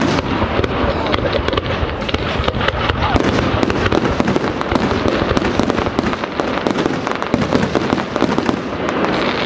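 Aerial fireworks shells bursting: a sudden loud report, then a dense, rapid crackle of many small pops.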